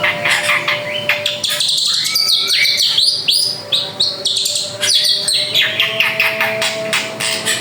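Drongo (srigunting) singing a continuous, rapid run of varied chirps, rising and falling whistles and sharp clicking notes.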